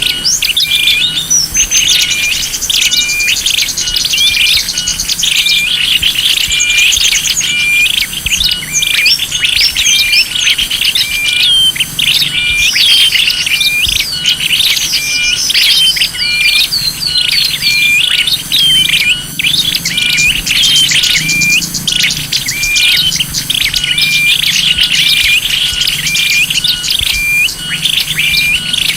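Small-bird lure recording (suara pikat): dense chirping and trilling of small songbirds, with one short call repeating about once a second under faster trills.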